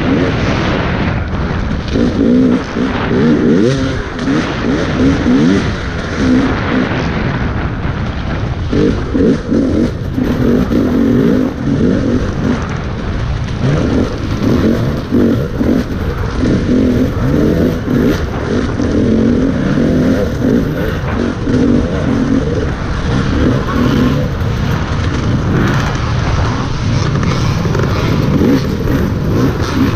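Motocross dirt bike engine revving up and down again and again under hard riding. It is heard close up through a helmet-mounted camera.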